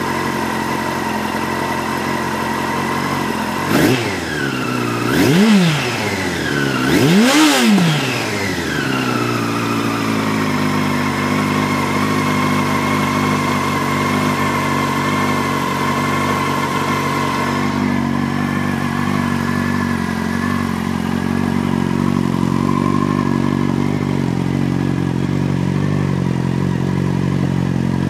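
Yamaha R1's inline-four engine idling as it warms up from a cold start. It is blipped three times, about four, five and a half and seven and a half seconds in, each rev rising and falling, the last the longest, then settles back to a steady idle.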